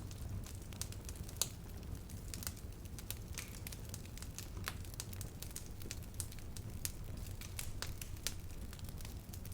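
Wood campfire burning: irregular sharp crackles and pops over a steady low rumble of the flames, with one louder pop about one and a half seconds in.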